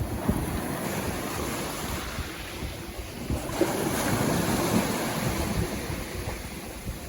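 Sea waves breaking and washing up a beach, a continuous rushing surf that swells about halfway through and eases off near the end.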